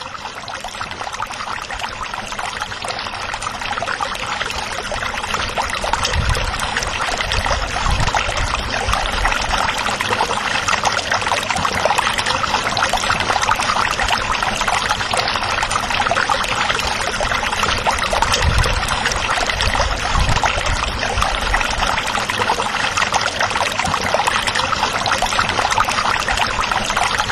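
Water running steadily, like a small stream or trickling flow, an even continuous rush. A low rumble rises and fades twice, around six and eighteen seconds in.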